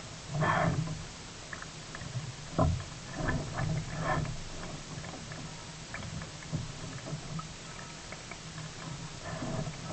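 Sea kayak on the water: irregular splashes of paddle strokes and one sharp knock about two and a half seconds in, over a steady hiss of water.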